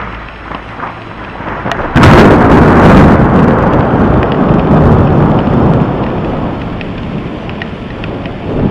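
Thunder: a sudden loud crack about two seconds in, then a long rumble that slowly dies away and swells again briefly near the end.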